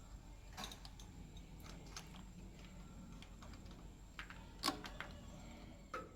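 Faint scattered clicks and small metallic taps of hand work, with one sharper click about four and a half seconds in, over a low steady hum.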